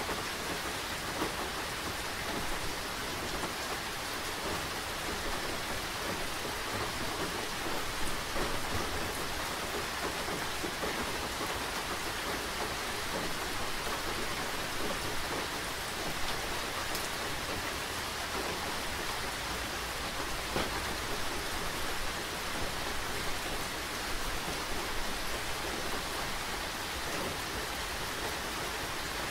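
Steady, dense rain falling on surfaces, with a few sharper drop hits now and then.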